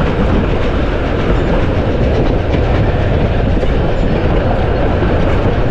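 Heritage railway train running steadily along the track, with its wheels and carriages heard from an open carriage window.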